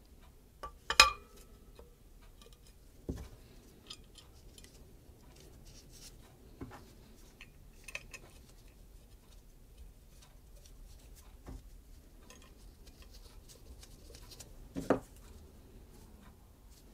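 Metal parts and hand tools clinking and knocking as a bracket is refitted by hand: irregular, scattered clicks with no steady rhythm. The loudest is a ringing metallic clink about a second in, and a sharp knock comes near the end.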